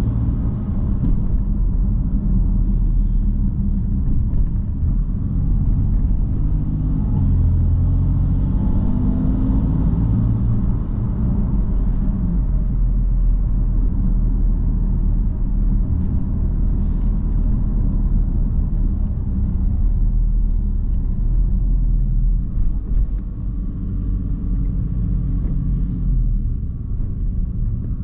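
BMW M3 F80's 3.0-litre twin-turbo inline-six and exhaust running while the car is driven. The sound is steady and deep, and the engine pitch rises and falls a few times as the throttle changes.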